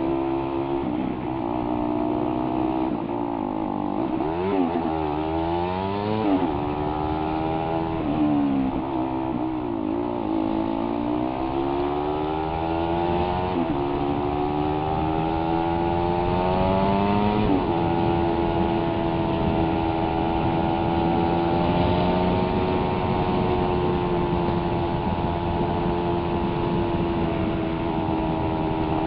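Suzuki Raider 150's single-cylinder four-stroke engine under way, its pitch rising and falling as the rider accelerates and eases off. About two-thirds of the way through the pitch drops sharply at an upshift, and it then holds steady at cruising speed.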